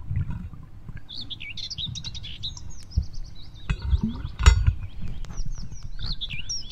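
Birds chirping in a rapid run of high twittering calls, starting about a second in. Under them are a low rumble and a few dull knocks from digging in the riverbed gravel, the loudest about four and a half seconds in.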